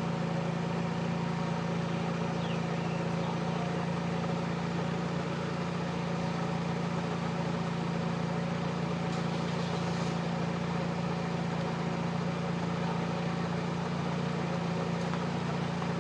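An engine idling, a steady unchanging hum.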